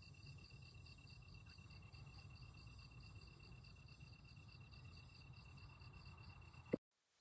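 Near silence with faint, steady, evenly pulsing insect chirping in the background. A short click comes near the end, followed by dead silence.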